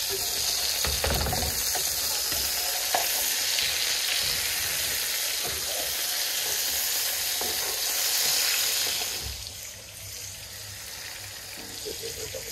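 Burger patties sizzling as they fry, with a few light clicks; the sizzle drops away sharply about nine and a half seconds in.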